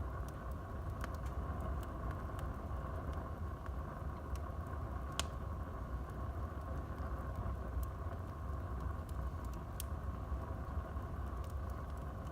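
Wood fire burning in a fireplace: a steady low rumble and hiss with scattered crackles and pops, the sharpest pop about five seconds in.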